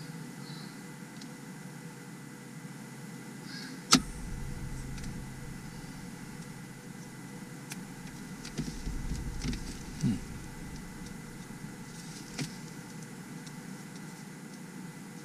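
Hands handling small parts and backing film: one sharp click about four seconds in, then several lighter taps and knocks, over a steady low hum.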